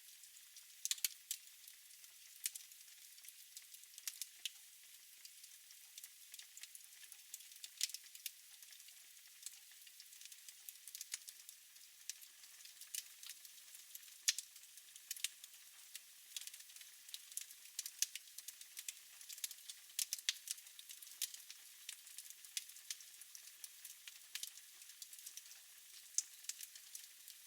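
Fire crackling in a fireplace: frequent, irregular sharp snaps and pops over a soft hiss.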